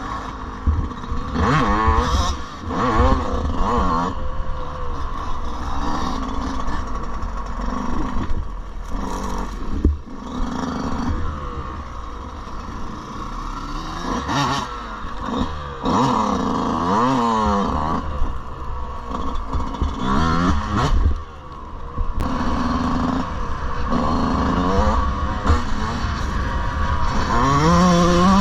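Yamaha 125cc dirt bike engine being ridden, its pitch rising and falling again and again as the throttle is opened and closed, over a steady low rumble.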